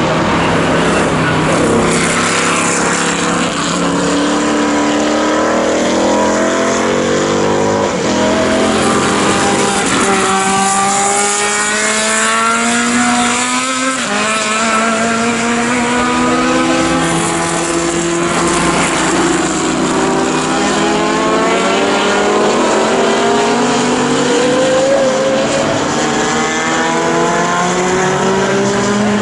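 Several historic sports racing car engines at full throttle. Their pitch climbs again and again as they accelerate, dropping at each upshift.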